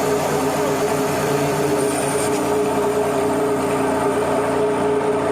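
Steady machinery drone aboard a ship: a constant hum with a few fixed low tones over an even rumble, unchanging throughout.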